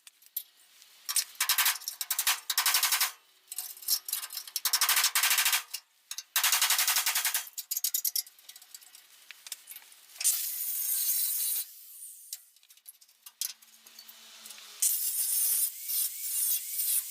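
Angle grinder taking rust off the steel bodywork in short, irregular bursts of harsh scraping, some under a second long and others over a second, with pauses between.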